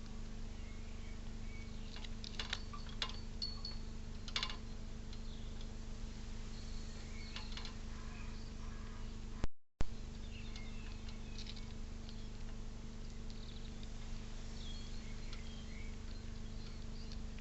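Faint bird chirps and a few sharp clicks over a steady electrical hum and hiss from the feeder camera's microphone, with a brief dropout and pop about nine and a half seconds in.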